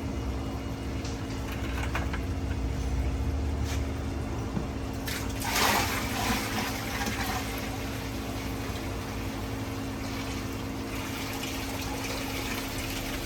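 Water poured from a bucket into a reef aquarium, rushing continuously, with a louder gush about five seconds in, over a steady low hum.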